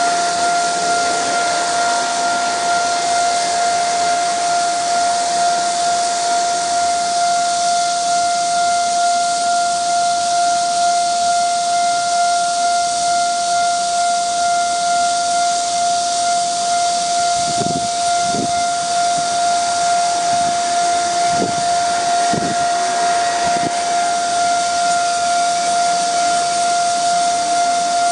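Railway level-crossing warning signal sounding one steady, unbroken tone while the crossing is closed for an approaching train. Under it runs a steady high hiss. A few faint low knocks come between about two-thirds and four-fifths of the way through.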